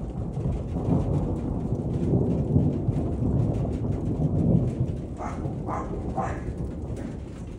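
Thunder rumbling low through steady rain, swelling and then fading over a few seconds. Near the end an animal, most likely a dog, gives three short calls about half a second apart.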